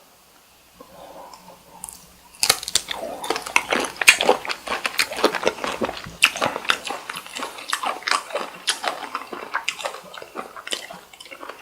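Close-miked mouth sounds of chewing cooked cocktail shrimp: faint at first, then from about two and a half seconds in a dense, irregular run of clicky chews and bites.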